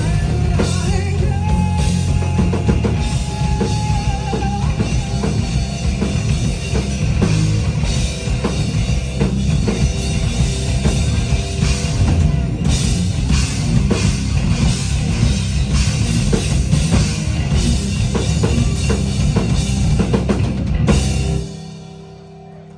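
Rock band playing loud, with a pounding drum kit, electric guitar and a singer; about 21 seconds in the music stops suddenly, leaving a single steady ringing tone.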